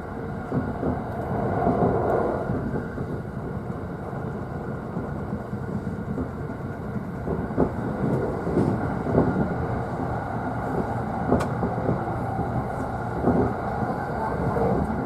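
Running noise of a JR East E531 series electric train heard inside from an upper-deck seat of a double-decker car: a steady rumble of wheels on rail, with a few sharp clicks as the wheels pass rail joints.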